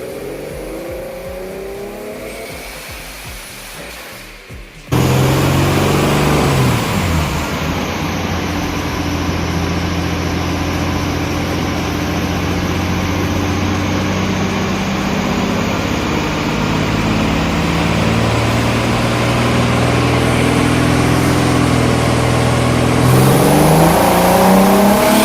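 Car engine running, plausibly the MR2's turbocharged 3VZ V6. It is quieter for the first few seconds, then cuts suddenly to a loud, steady engine note that shifts pitch in steps and revs up near the end.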